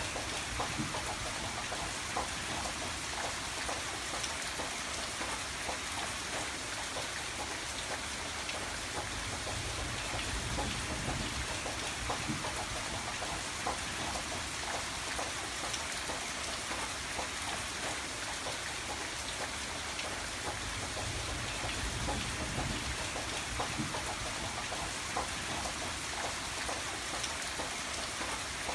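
Steady rain falling, with many small, dense drop ticks over an even hiss.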